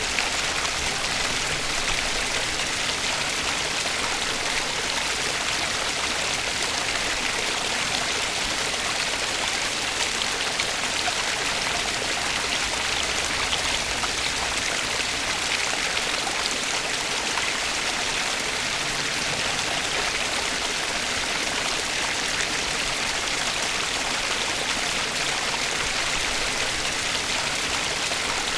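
Flowing water of a stream running steadily, a constant rushing with fine splashing and no change in level.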